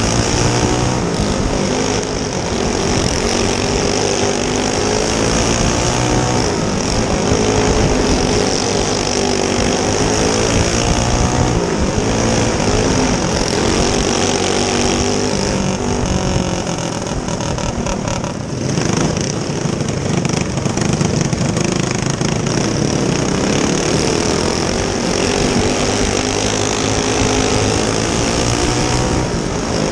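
Single-cylinder go-kart engine racing, its pitch repeatedly rising and falling as it accelerates and lifts off through the turns, over a steady high hiss.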